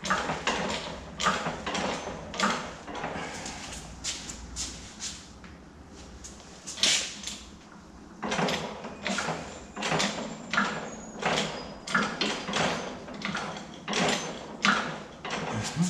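Hydraulic bottle jack on a pipe bender being pumped by hand, a run of short squeaky, clicking strokes about two a second with a pause in the middle, as the jack forces 3-inch exhaust pipe around the bending die.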